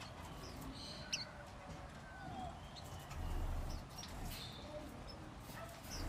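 Faint, short, high chirps of small cage birds, a few isolated notes, over a low rumble of handling or microphone noise about three seconds in.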